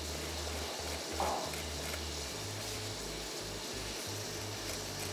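Chicken cubes frying in oil in a pan: a steady sizzle, with a short louder sound about a second in.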